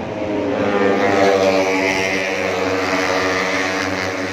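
Tuned 150cc four-stroke underbone racing motorcycles running at high revs, the engine note swelling to a peak about a second in and then slowly fading.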